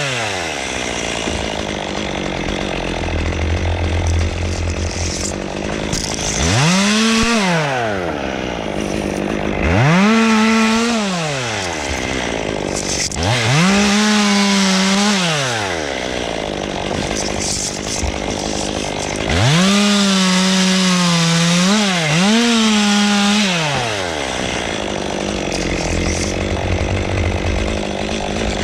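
Two-stroke chainsaw revved to full throttle and let back down again and again: a rev falling away at the start, then four more high-pitched runs of one to four seconds each, the last one dipping briefly and picking up again. The engine drops back between runs.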